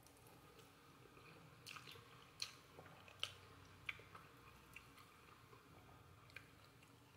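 Faint chewing of instant noodles, with a few sharp wet mouth clicks and smacks, most between about a second and a half and four seconds in.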